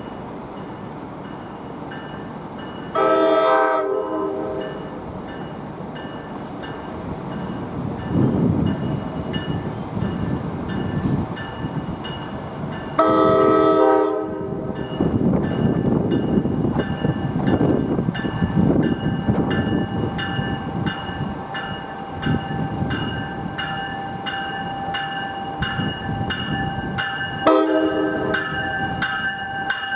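NJ Transit train horn sounding three blasts, the first two about a second long and the last one short, as a train rumbles through. A grade-crossing bell rings steadily, its strikes repeating evenly in the second half.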